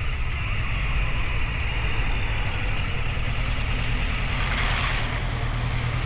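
Motorcycle engine running steadily while riding, with a constant wash of wind noise. A brief louder rush of noise comes about four and a half seconds in.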